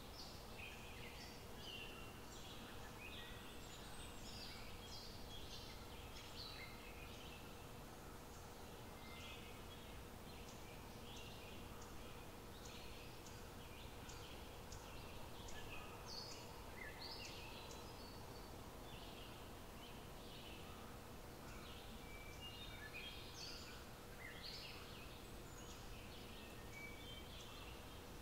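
Songbirds chirping and calling, many short varied calls coming and going, over quiet outdoor background noise and a faint steady hum.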